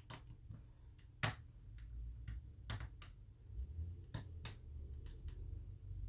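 Small sharp clicks and taps at irregular intervals, about six louder ones among fainter ticks, from a precision screwdriver working the screws of a Samsung Galaxy S8 phone as they are checked for tightness. A low hum sits underneath.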